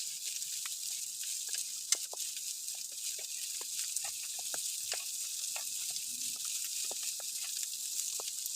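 Heavy rain falling: a steady high hiss with many close drops pattering irregularly, one sharper drop hit about two seconds in. The sound stops abruptly at the end.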